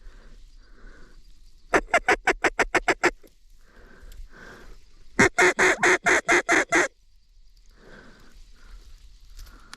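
Mallard quacking in rapid runs: about a dozen quick quacks starting a couple of seconds in, then a louder run of about eight near the middle, with fainter scattered quacks between.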